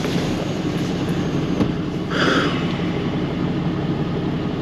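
A vehicle's engine running steadily, heard from inside the cab, with a brief hiss about two seconds in.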